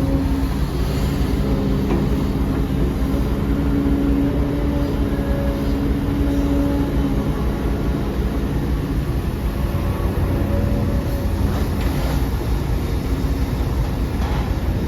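Heavy diesel engine of earthmoving machinery running steadily, its pitch holding level, with a few faint knocks in the second half.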